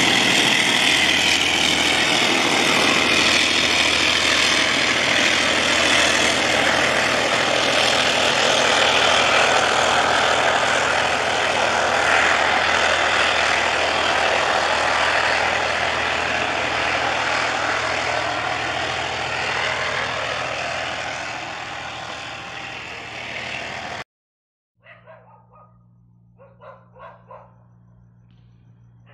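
Train of passenger coaches hauled by a diesel-electric locomotive running away down the line, its wheel and rail noise fading steadily for about twenty seconds. After it stops abruptly, a dog barks in several short bursts over a low steady hum.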